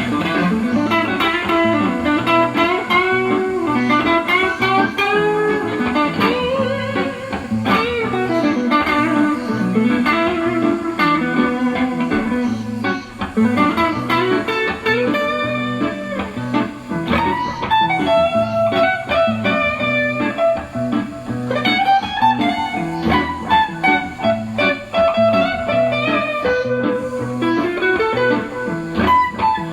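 Electric guitar playing a bluesy melody with bending, sliding notes over a repeating lower accompaniment.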